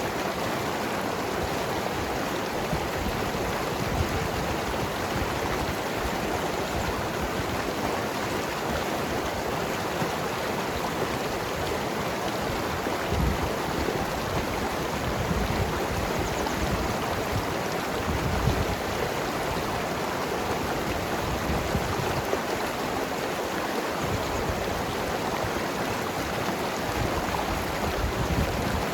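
Mountain river flowing and gurgling over rocks: a steady rush of water with small low splashes and burbles coming and going.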